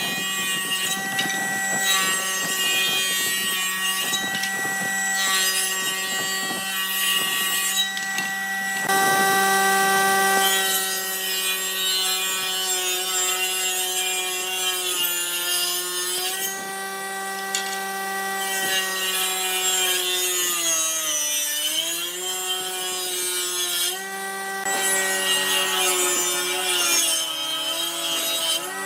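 A motor-driven tool running with a steady hum over a rasping, scraping noise of work on wood. About two-thirds of the way through its pitch dips and recovers, as a motor does when loaded.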